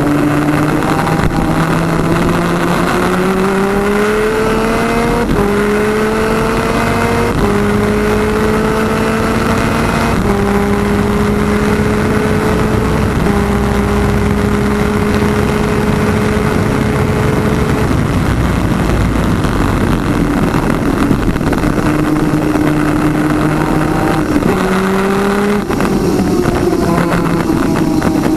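Twin 250cc two-stroke superkart engine running hard, heard from the kart itself. Its pitch climbs through several upshifts, holds steady at high revs for a few seconds, falls away and then climbs again through another shift near the end.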